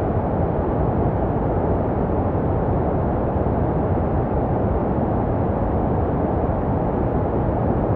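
Steady, unbroken white noise weighted toward the low end, a deep even hiss with little treble. It is a baby sleep noise, made to resemble the sounds heard inside the womb.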